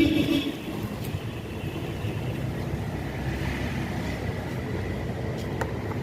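Vehicle engine running steadily with road and wind noise, and a short horn-like tone right at the start.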